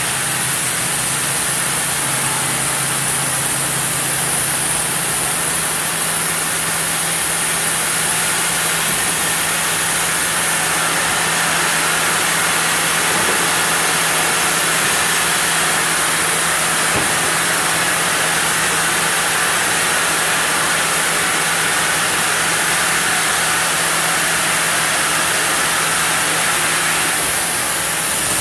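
Sawmill saw running steadily as it cuts through a block of zelkova (keyaki) hardwood, a continuous hiss over a low motor hum.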